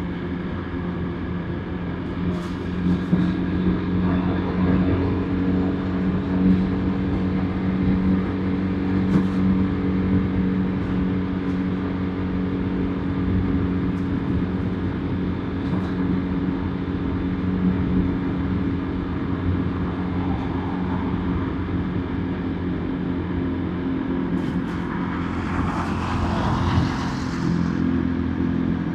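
Motorbike engine running at a steady cruise with wind and road noise, heard from the rider's seat. A louder rushing noise swells and fades near the end.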